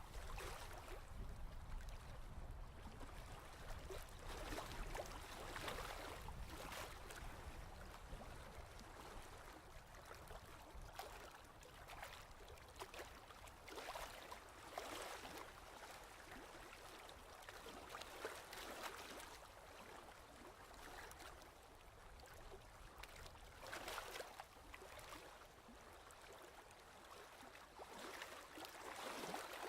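Ocean waves washing in, faint, with soft surges every few seconds.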